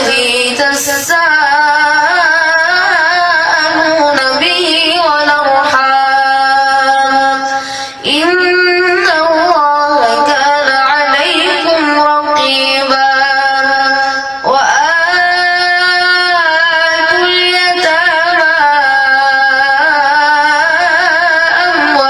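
A boy's voice reciting the Quran in a melodic chant. It holds long, ornamented phrases, with short breaks for breath about eight and fourteen seconds in.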